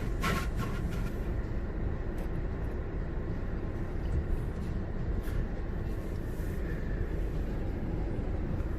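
Steady low rumble heard from inside a car sitting in neutral at the entrance of a tunnel car wash. It is the car's idling engine mixed with the wash's conveyor machinery running, with a few faint clicks.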